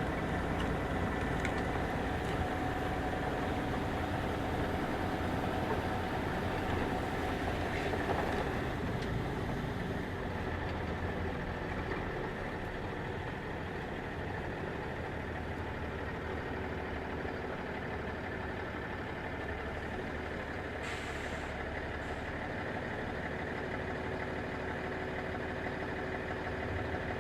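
Box truck engine idling steadily, heard from inside the cab, with a brief hiss about two-thirds of the way through.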